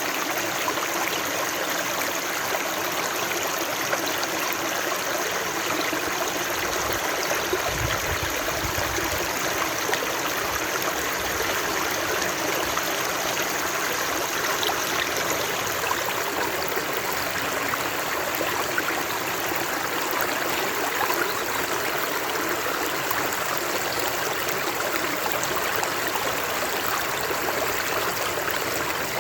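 Water running steadily over rocks in a stream, a continuous rushing and trickling, with a brief low rumble about eight seconds in.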